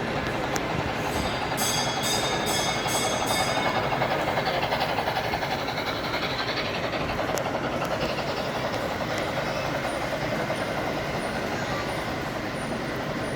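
A train running on rails: a steady rumble and rail noise, with a short run of high, evenly spaced clicks about two seconds in.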